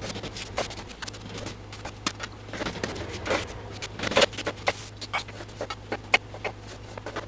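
Kitchen food-preparation noises: irregular clicks, taps and knocks of utensils and bowls, over a steady low electrical hum.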